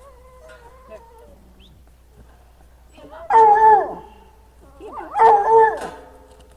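An animal gives two loud, drawn-out calls, about a second and a half apart, with a fainter call near the start.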